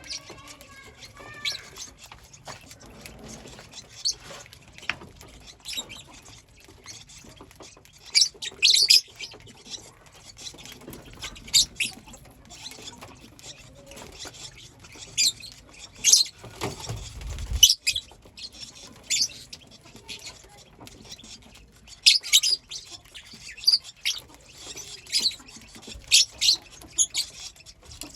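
Pet lovebirds chirping: short, shrill high-pitched chirps in irregular bursts, some in quick clusters. There is a brief low rumble about two thirds of the way in.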